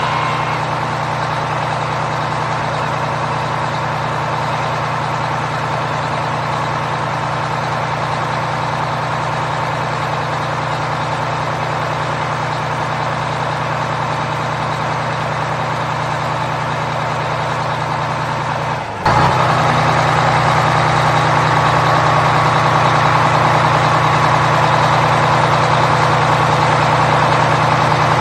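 Truck engine running steadily at idle. About two-thirds of the way through it cuts off for a split second and resumes slightly louder and brighter.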